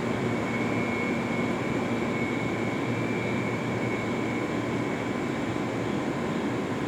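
JR East 211 series electric train running steadily, a constant rumble with a high steady whine over it.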